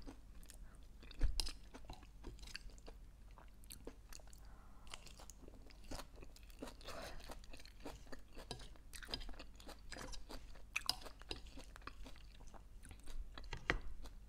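Close-miked chewing of a leafy salad: soft crunching and small wet mouth clicks at an irregular pace, with one louder click about a second in.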